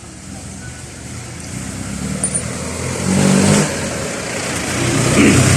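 A motor vehicle's engine approaching and growing steadily louder, with a brief swell about three seconds in.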